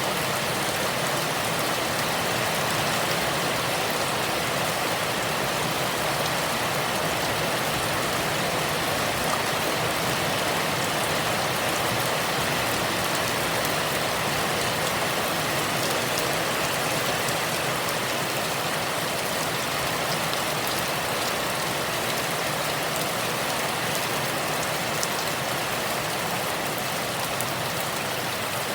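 Heavy rain falling steadily: a dense, even hiss that holds at the same level throughout, with a few faint ticks of individual drops.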